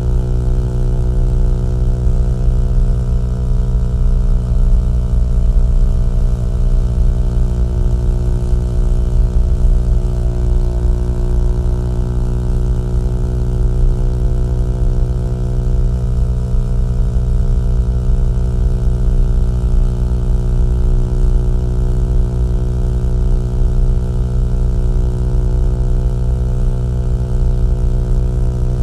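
Small-displacement motorcycle engine and exhaust running at a steady, unchanging speed.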